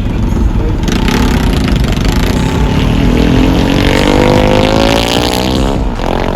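A vehicle engine accelerating, its pitch rising steadily over a few seconds over a continuous traffic rumble, then breaking off abruptly near the end.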